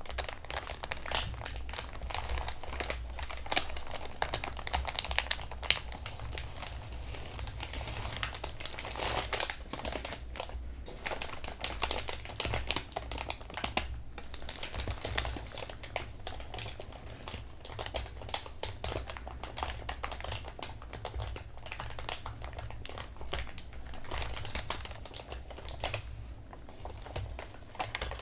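Thin packing paper being crinkled and tapped with fingertips: a continuous run of dense, irregular crackles and quick taps.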